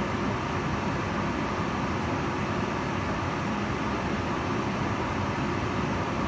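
Kitchen range hood running steadily: a constant fan whoosh of air, strongest in the low and middle range, with no change.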